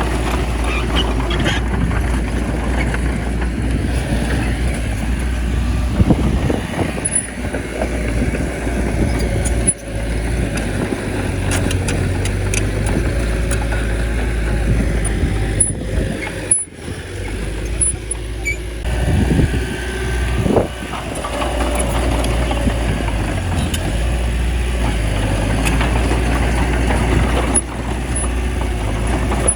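Small bulldozer's diesel engine running steadily while it works, with the engine note rising briefly a couple of times about two-thirds of the way through.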